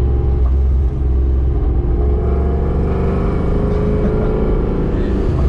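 Supercharged BMW S62 4.9-litre V8 with a straight-piped exhaust, pulling under throttle, its note rising steadily over a few seconds before dipping briefly near the end.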